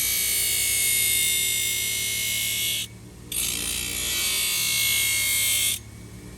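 A small high-speed power tool runs on hoof horn in two bursts, the first about four seconds long and the second about two and a half, with a short pause about three seconds in. A steady high whine sits under a hissing grinding noise, and it cuts off sharply each time.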